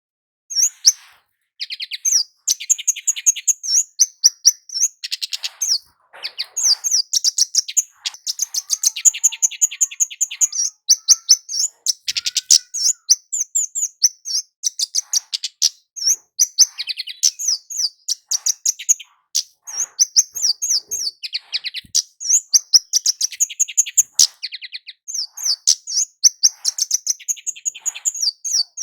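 Scarlet-headed flowerpecker (kemade jawa) song: rapid runs of thin, high chirps and trills in bursts of a few seconds with short pauses between them.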